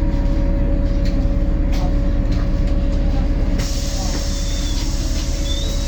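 Cabin sound of a MAZ-203 city bus under way: steady engine and drivetrain rumble with a constant whine. A hiss comes in suddenly a little over halfway through and carries on.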